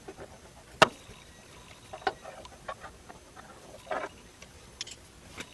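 Scattered clicks and light knocks of small parts being handled, the sharpest click about a second in, with a brief scrape or rattle around four seconds.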